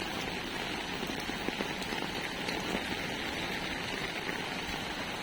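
Heavy rain falling steadily on a road and on an open umbrella overhead, a dense even hiss of drops.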